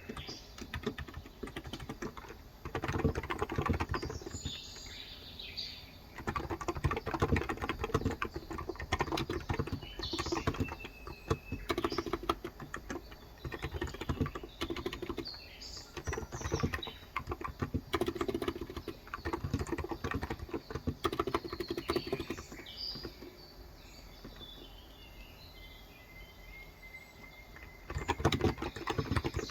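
Fast typing on a Cox Endeavor electro-capacitive (Topre-style) keyboard with 35 g switches: runs of soft, muffled keystrokes broken by short pauses, with a longer pause near the end before the typing starts again. Birds chirp in the background.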